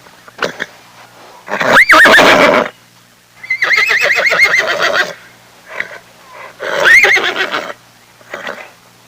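Horse whinnying three times, each call a high, quavering trill, the middle one the longest, with shorter, fainter calls in between.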